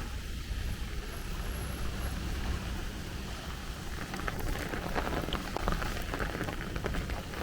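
Rain falling on the street, with scattered close drops pattering sharply over a steady low rumble.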